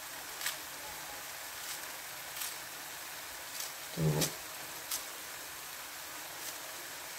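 Mashed eggplant bharta sizzling gently in a non-stick kadai over a gas flame: a steady low frying hiss with scattered small pops and spits. A short voiced sound about four seconds in.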